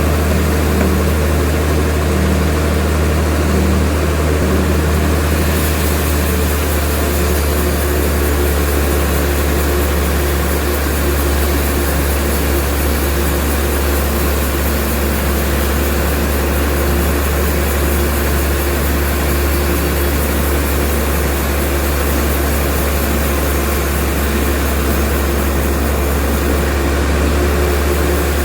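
Sawmill machinery running steadily, with a heavy low hum under a broad, even noise.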